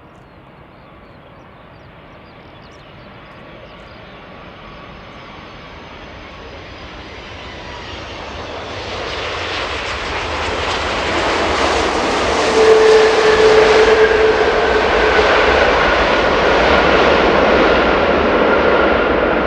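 Airbus A330-300 airliner's jet engines growing steadily louder over about twelve seconds as the plane comes close, then staying loud as it passes, with whining tones gliding through the noise.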